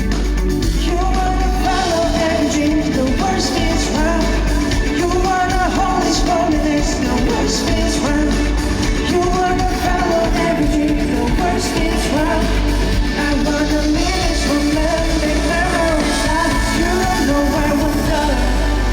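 A rock band playing live, with a lead singer's wavering melody over a full, steady band sound and heavy bass.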